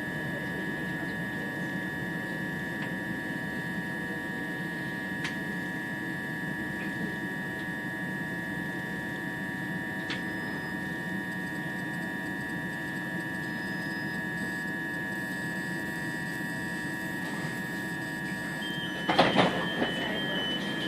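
Inside a passenger train carriage: steady running rumble with a constant high whine as the train comes into the station. Near the end a repeating beep starts and the doors clatter open.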